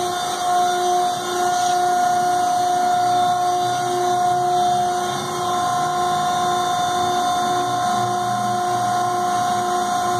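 Industrial baler's electric motor running steadily, giving a constant high whine over a low hum.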